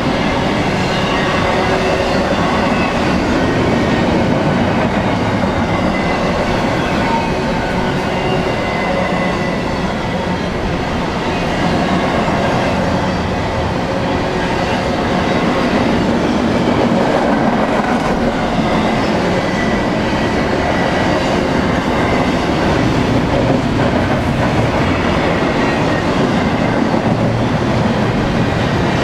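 Cars of a BNSF intermodal freight train rolling past: a steady rumble and clatter of steel wheels on rail, with faint high squealing tones coming and going.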